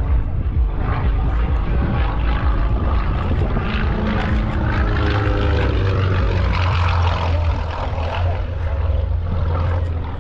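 Propeller airplane engine running loudly, its pitch shifting slowly, over a heavy low rumble.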